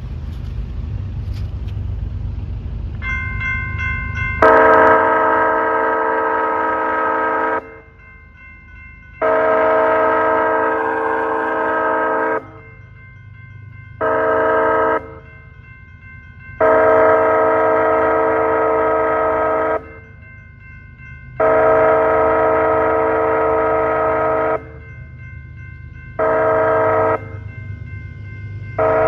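Diesel locomotive's multi-chime air horn sounding loud blasts in a long, long, short, long pattern, which is the standard grade-crossing signal, then starting it again. The train's low rumble runs underneath, and a fainter steady horn chord carries on between the blasts.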